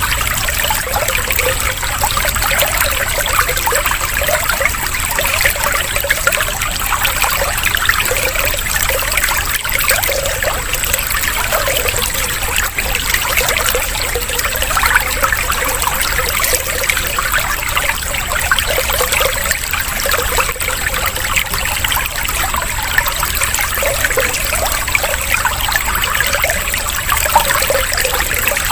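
Running water trickling and splashing steadily, like a small stream or fountain, used as a calming water-sound track.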